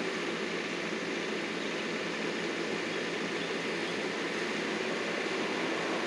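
Steady running noise of heavy landscaping machinery, even and unbroken.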